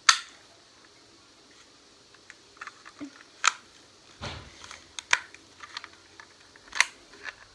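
Sharp clicks and clacks of an airsoft pistol's parts being handled and fitted together during reassembly, a few separate snaps spread a second or two apart with a duller knock near the middle.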